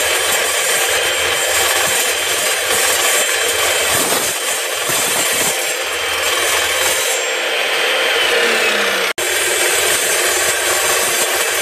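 Evolution Rage3 10-inch sliding miter saw cutting through steel, a steady, harsh grinding noise. It drops out abruptly for an instant about nine seconds in, then goes on.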